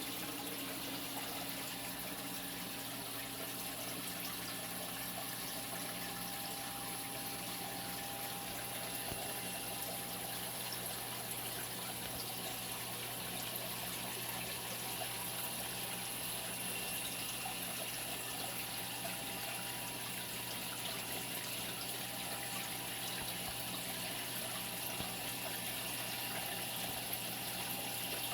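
Steady running water with a low electrical hum from a saltwater aquarium's pump and filtration.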